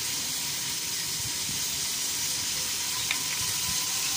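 Beef and onions frying in oil in an aluminium pressure cooker, a steady sizzle, with a metal spoon stirring and knocking against the pot. One light tap comes about three seconds in.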